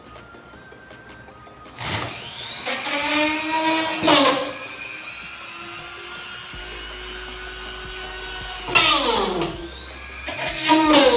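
Electric drill run in three short bursts, its whine dropping in pitch as it bears down under load, with a lower steady hum between the bursts.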